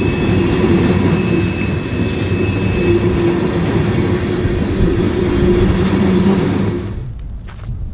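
Freight train rolling past, its wheels rumbling on the rails with a steady ringing tone over the noise. The sound drops away fairly suddenly near the end as the train clears.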